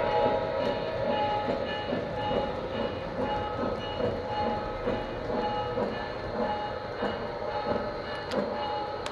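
Lionel O gauge toy train running on the track with a steady rhythmic beat, about two to three beats a second.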